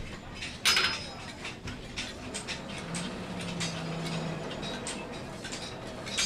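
Blacksmith's metalwork: one sharp, ringing metal strike about a second in, then irregular light metallic clicks and taps.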